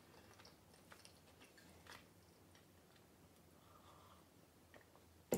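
Faint chewing of a small bread-and-goat-cheese canapé with soft mouth clicks, then a quiet sip of coffee from a glass mug. There is a single sharp click near the end.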